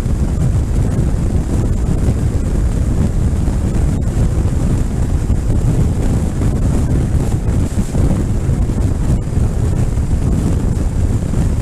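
Heavy wind buffeting the microphone of a motorcycle on the move, with road and engine noise underneath; it runs without a break.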